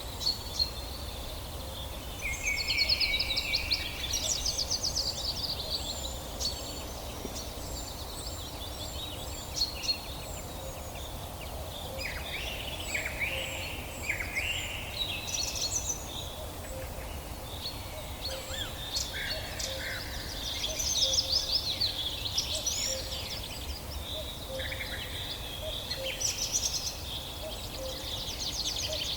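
Several songbirds singing and calling over one another, with rapid trills, chirps and short whistled phrases. A steady low rumble runs underneath.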